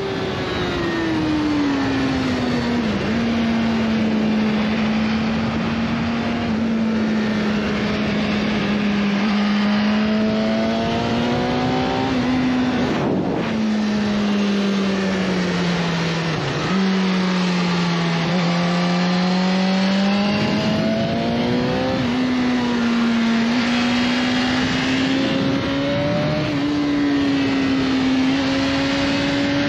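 BMW S1000RR sport bike's inline-four engine running under way, its pitch sinking and then climbing slowly, with short sharp dips in pitch about three seconds in, around thirteen seconds and past halfway, over steady wind rush.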